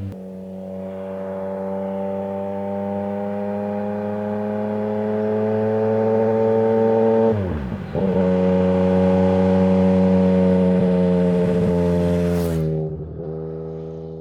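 Yamaha MT-09's 850 cc three-cylinder engine through a Mivv Suono exhaust, pulling hard under acceleration with a slowly rising note. About halfway through, the note dips sharply for an upshift, then climbs again. Near the end it drops away with a short sharp crack and fades.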